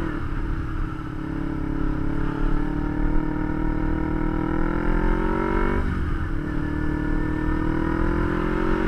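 Kawasaki Ninja 250's parallel-twin engine pulling under acceleration, its pitch climbing steadily. It shifts up about six seconds in: the pitch drops, then climbs again. Low wind rumble runs underneath.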